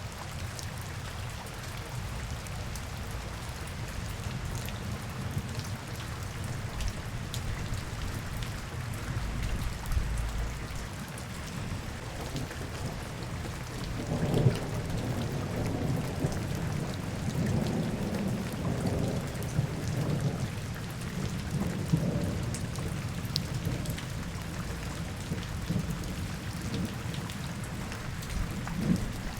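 Steady rain falling, with the fine patter of drops on hard surfaces. About halfway through, a low rolling rumble rises under the rain for several seconds, then fades back.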